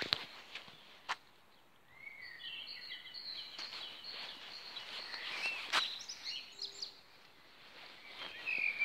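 Songbirds singing, with chirps and short warbling phrases from about two seconds in and again near the end, over a light outdoor hiss. A few sharp taps break in, two near the start and one near the middle.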